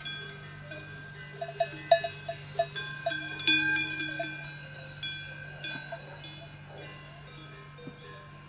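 Metal bells clinking and ringing in irregular strokes, with a quick run of clinks about a second and a half in, over a steady low hum.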